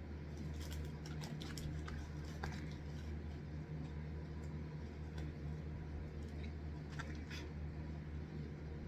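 Eating sounds: scattered small crisp clicks of chewing and handling food, bunched near the start and again near the end, over a steady low hum.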